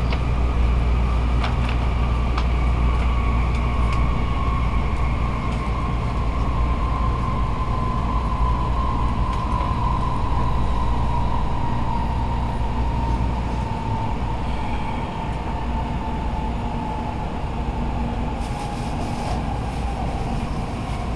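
Cabin running noise inside an N700-series Shinkansen car: a steady low rumble under a motor whine that slowly falls in pitch as the train slows for its final station. The rumble eases a little about two-thirds of the way through.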